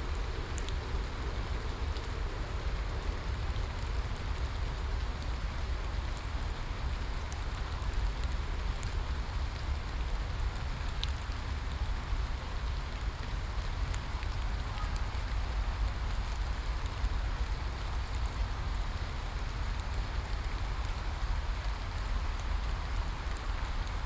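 Steady rain falling, with a constant low rumble underneath and scattered sharp ticks of individual drops.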